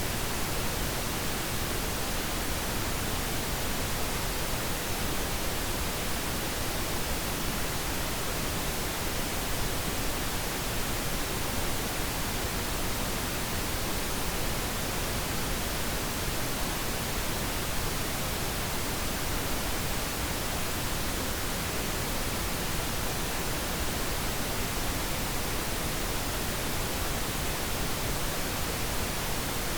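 Steady pink noise: an even, unchanging hiss spread across all pitches, without a break or any other sound.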